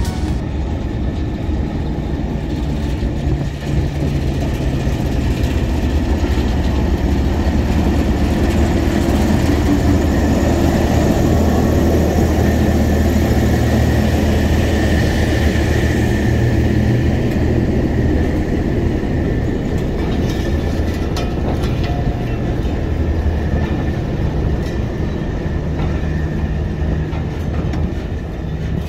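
A train running on rails: a steady, continuous rumble.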